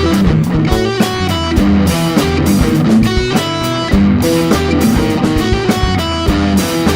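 Rock band playing an instrumental passage between sung lines: electric guitar picking a melody over bass and drum kit.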